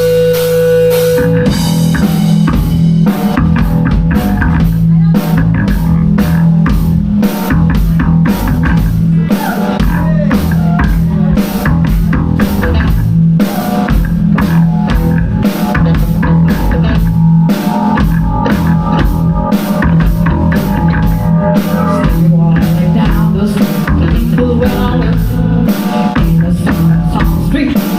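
Rock band playing live: drum kit, electric guitars and bass guitar in a loud instrumental passage with a driving beat.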